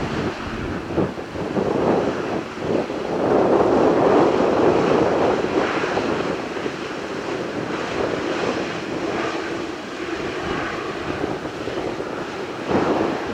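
Jet engines of a Boeing 787-9 Dreamliner landing: a broad, rushing roar that swells about three to five seconds in and then holds steady, with wind buffeting the microphone.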